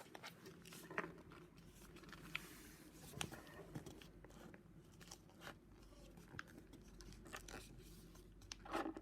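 Faint paper handling: a sheet being folded and creased by hand, with scattered soft crinkles and taps.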